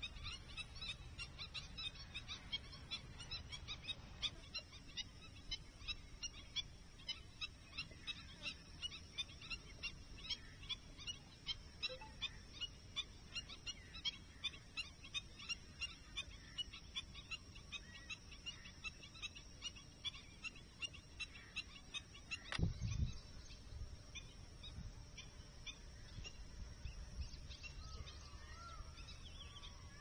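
Birds calling outdoors: a long, regular series of short, high chirps, about two a second. A single sharp thump comes about two-thirds of the way through, and softer calls follow near the end.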